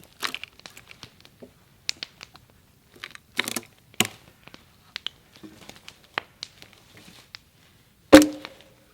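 Chestnut log splitting apart along the grain: scattered sharp snaps and crackles of wood fibres tearing, thickest about three and a half seconds in. Near the end a single loud strike with a ringing tone.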